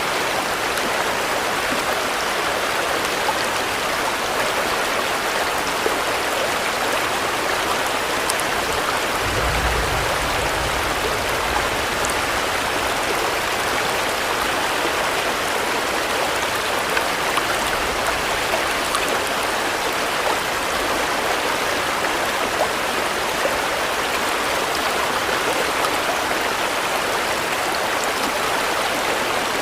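Steady rain falling, an even hiss with scattered drops, with a brief low rumble about nine seconds in and a fainter one later.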